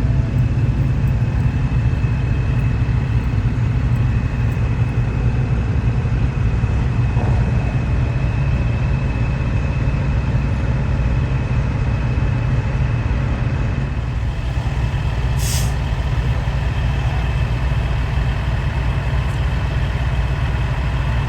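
Semi-truck diesel engines idling steadily, with a brief high hiss of air released from a truck's air brakes about fifteen seconds in.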